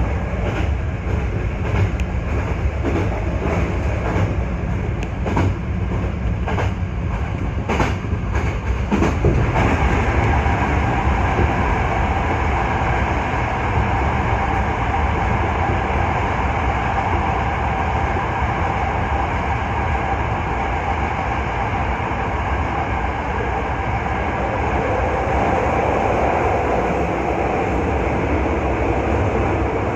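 Hankyu 1300 series electric train running along the line, heard from inside the front cab. Clicks from the wheels over the track come through in the first ten seconds, then it settles into a steady running rumble with a faint hum.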